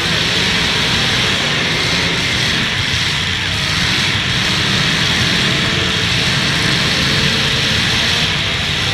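Several demolition derby cars' engines running at once, a loud, steady din.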